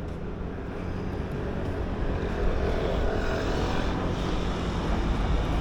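Low, steady engine drone that grows gradually louder.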